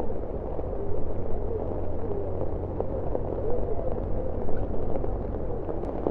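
Indistinct, muffled voices of people over a steady low rumble.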